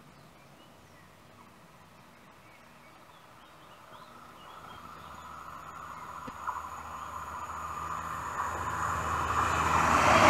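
A Southern Class 171 Turbostar diesel multiple unit approaching along the line. It is faint at first, then its rumble and rail noise grow steadily louder from about four seconds in, with a thin, steady high ring joining in.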